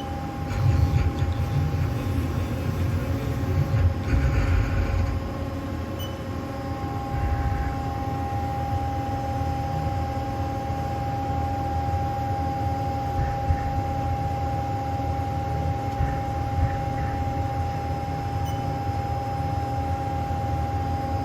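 Haas SL-15 CNC lathe running: a steady high-pitched hum with a low rumble, the rumble heavier and uneven for the first few seconds.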